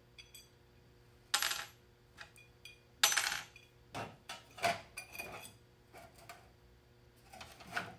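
Small metal hardware and tools clinking and rattling in a series of sharp knocks with a brief metallic ring, the loudest about three seconds in, as they are rummaged through in a search for a dropped screw.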